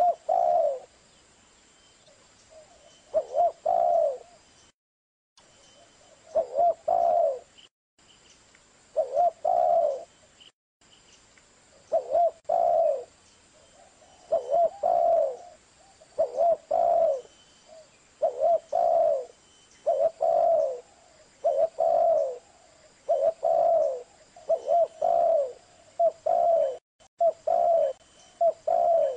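Zebra dove (perkutut) cooing: the same short phrase of soft coos repeated about every two seconds, coming closer together toward the end.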